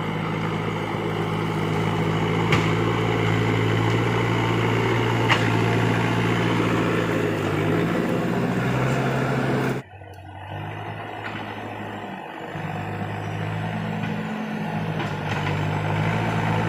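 Diesel engine of a Case tractor working a road repair, running steadily with a slight rise in pitch, cut off suddenly about ten seconds in and then heard again a little quieter.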